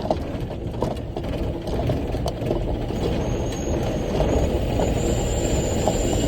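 Bell articulated haul truck heard from inside the cab while driving: a steady low engine and drivetrain rumble with scattered knocks and rattles, slowly growing louder. A thin high whine comes in about three seconds in.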